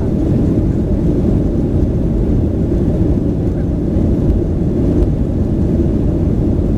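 Steady low rumble inside the passenger cabin of a Boeing 737-900 in flight: engine and airflow noise at a constant level.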